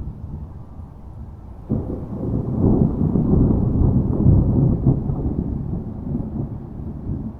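Low rolling thunder: a background rumble, then a louder peal that breaks in suddenly under two seconds in, swells for a few seconds and slowly dies away.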